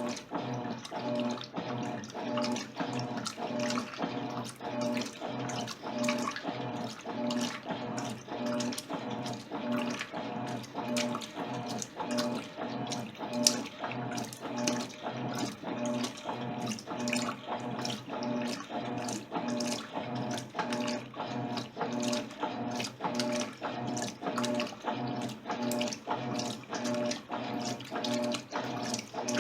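Electrolux LTC10 top-loading washing machine agitating a load of jeans in water. The motor hum pulses in even strokes about twice a second, with water sloshing.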